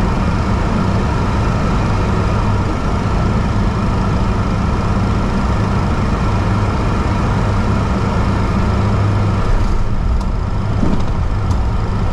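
Four-engine C-130 Hercules turboprops running loud and steady, a deep propeller hum over engine hiss. The hiss thins about ten seconds in.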